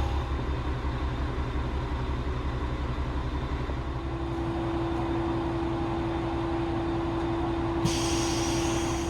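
Komatsu diesel engine of a KiHa 40-series railcar idling with a steady low throb. About four seconds in a steady hum joins it, and near the end a hiss sets in.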